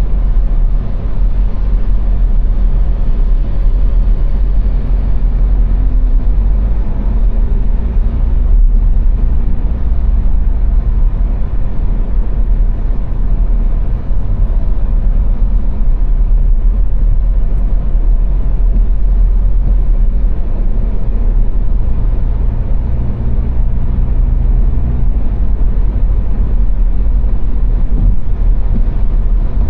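Car driving at motorway speed on the Autobahn: a steady deep rumble of road and tyre noise with a low engine drone.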